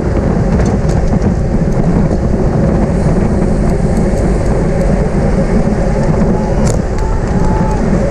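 Road racing bicycle at speed: steady wind rush and tyre-on-road rumble, with a few light clicks and one sharper click about seven seconds in.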